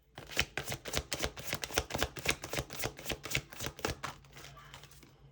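Tarot cards being shuffled by hand: a fast run of soft card clicks and slaps for about four seconds, then tapering off.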